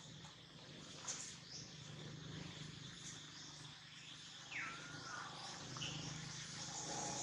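Faint outdoor ambience with scattered high bird chirps, and one short falling call a little past halfway.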